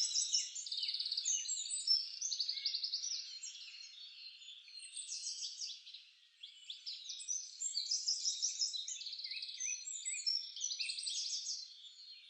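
A chorus of small songbirds chirping and trilling, many high calls overlapping. It thins out briefly about six seconds in, then fills back in.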